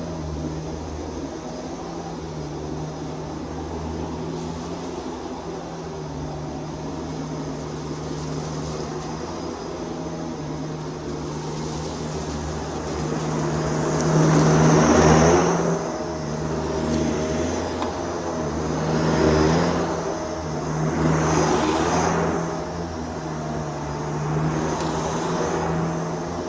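Vacuum cleaner running with a steady motor hum, its airflow rising into louder rushing swells several times in the second half, as it is pushed back and forth over the floor.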